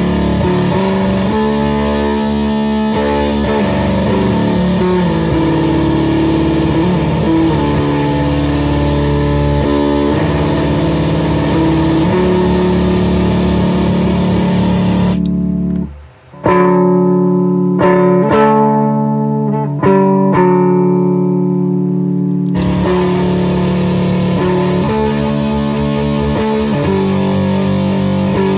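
Plucked electric string instrument played through a Darkglass DFZ fuzz pedal: held, heavily fuzzed notes and riffs. About sixteen seconds in it stops briefly, then plays a cleaner, less distorted passage for about six seconds before the full fuzz comes back.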